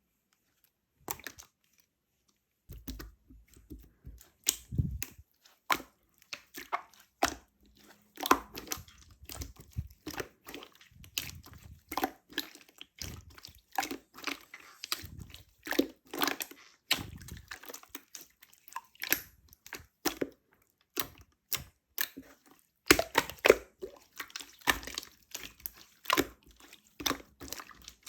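Opaque slime being squished and worked by hand: a quick, irregular run of sticky clicks and pops.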